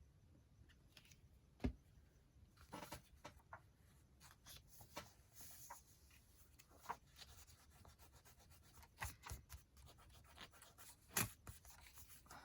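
Faint rubbing and rustling of paper being handled, with two sharp knocks, one early and one near the end.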